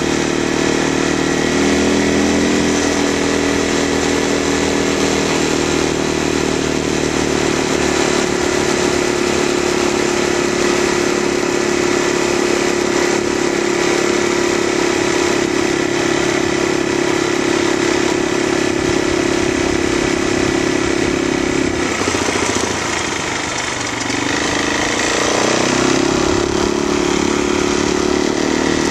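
Stearman biplane's radial engine running steadily. Its pitch dips and wavers about three quarters of the way through, then rises back to a steady run.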